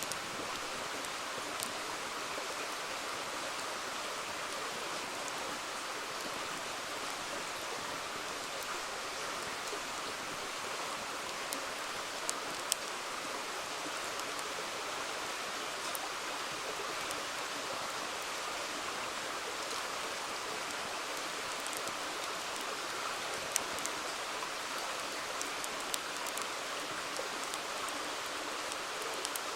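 A river flowing steadily, with a few sharp pops from a wood campfire scattered through it.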